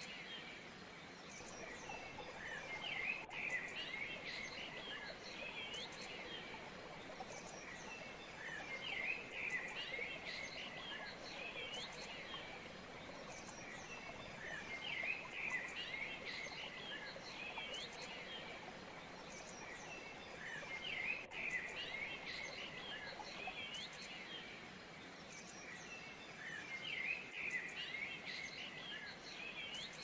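Songbirds chirping and twittering in dense bursts every few seconds, over a steady soft background hiss.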